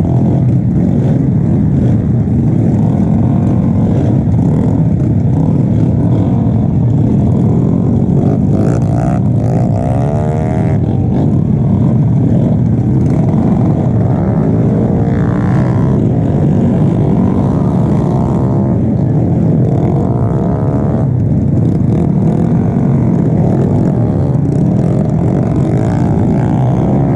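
Motorcycle engine and wind rumbling steadily while riding. The engine's pitch rises and falls a few times, about ten, fifteen and twenty seconds in, as it revs through the gears.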